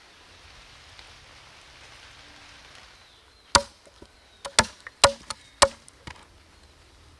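Chopping: four sharp, loud strikes of a blade into wood, about half a second to a second apart, each with a short ring. They come after a few seconds of faint steady hiss.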